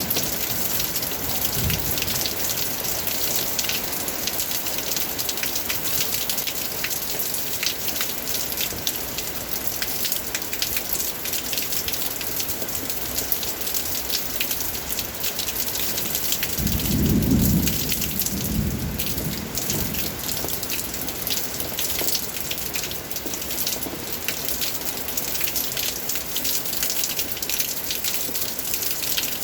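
Steady rain falling, a constant hiss with many separate drops striking close by. A low rumble rises and fades over about three seconds a little past the middle.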